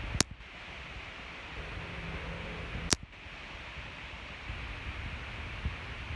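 Two sharp clicks about three seconds apart over a steady hiss and low rumble.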